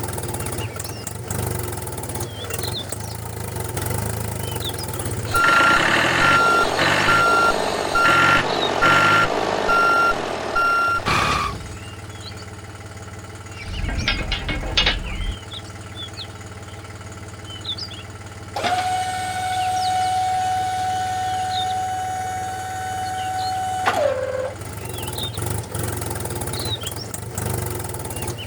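A small motor hums steadily throughout. About a fifth of the way in comes a run of evenly spaced electronic beeps, like a reversing alarm, lasting about five seconds. Later a long steady horn-like tone holds for about five seconds and drops in pitch as it ends.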